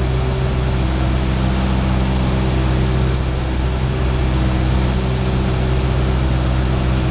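Cessna 172R's four-cylinder Lycoming engine and propeller running steadily in flight: a low, even engine hum under a wide rushing noise, with no change in power.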